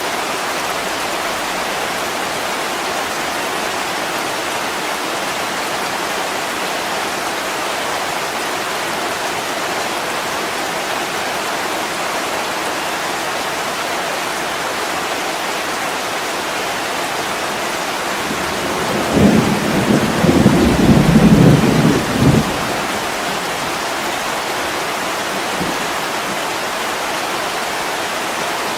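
Heavy rain falling steadily on a window, with a roll of thunder rumbling for about three seconds about two-thirds of the way in.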